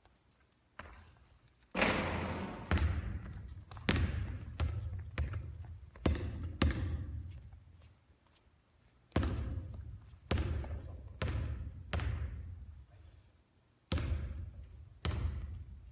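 A basketball bouncing on a court floor, a string of sharp bounces each with a fading echo, coming in bursts with short pauses between.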